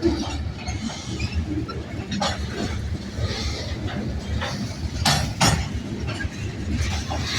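Rail cars of a long freight train rolling by, a steady low rumble with sharp metallic clanks and clinks from wheels and couplers, the strongest about two seconds in and twice around five seconds in.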